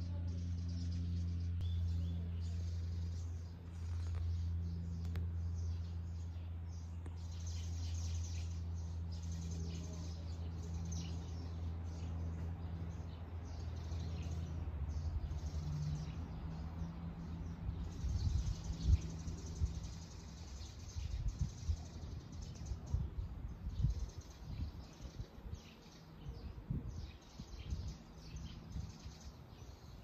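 Small garden birds chirping and twittering throughout, over a steady low hum that fades out about two-thirds of the way in. Irregular low rumbles take over near the end.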